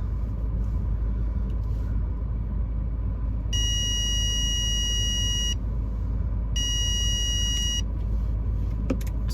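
Car cabin rumble while driving, with two long, steady electronic warning tones from the car's sensor alarm, the first about two seconds and the second about one. The driver puts the beeping down to snow on the sensor. A brief click near the end.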